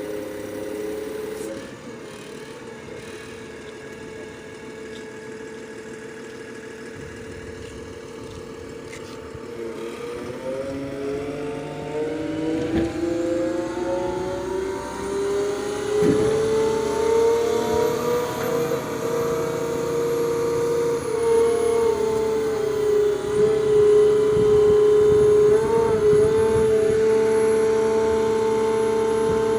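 Putzmeister concrete pump's engine running. About a third of the way in its pitch rises and it grows louder, and it then holds at a high steady speed.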